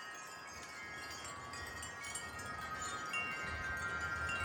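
Wind chimes ringing as a gust of wind sets them swinging: several clear tones overlap and keep sounding. More tones come in over the last second or so, along with a low rumble of wind.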